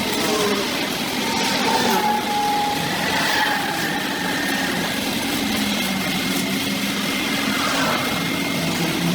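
A small petrol engine, most likely a brush cutter used to cut elephant grass, running steadily with its pitch rising and falling slightly.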